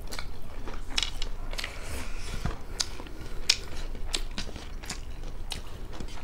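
Close-miked mukbang eating: people chewing rice and fried chicken gizzard, with a dozen or so sharp, crisp crunches and mouth clicks scattered irregularly.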